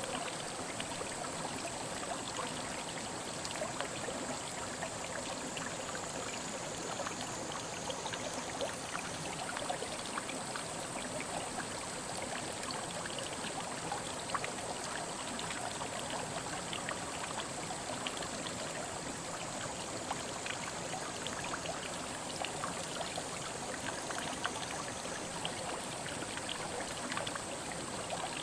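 Mountain headwater stream running over rocks: a steady babble with many small splashes, and a faint steady high-pitched whine above it.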